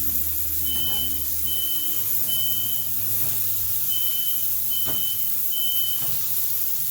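Smoke alarm sounding its three-beep pattern: two groups of three high-pitched beeps, each about half a second long, set off by smoke from the hot griddle.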